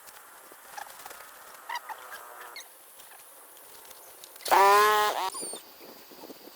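A goose honking once, loudly, about four and a half seconds in, with a few faint short bird chirps before it.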